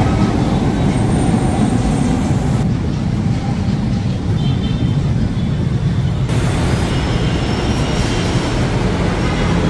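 Manila LRT Line 1 light-rail train running along the station platform, a loud steady rumble of the train and its wheels on the rails.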